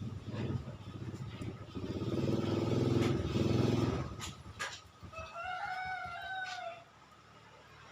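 Suzuki Satria two-stroke motorcycle engine revving up and easing off, with a couple of sharp clicks as it drops back; the bike is being checked for a rough-sounding engine. A rooster crows once, about five seconds in.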